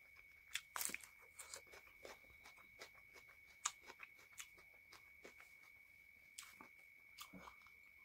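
Close-miked eating sounds: chewing with wet mouth clicks and smacks, and fingers working rice on a plate, in short scattered bursts over a faint steady high whine.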